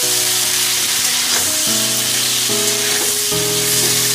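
Chicken pieces frying in mustard oil in a kadai, a steady sizzle, with a metal spatula stirring and scraping against the pan. Soft background music runs underneath.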